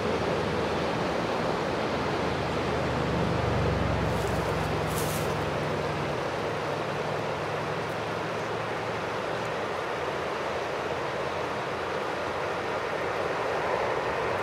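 Jet airliner engines running with a steady rushing noise, with a low hum underneath for a few seconds in the first half.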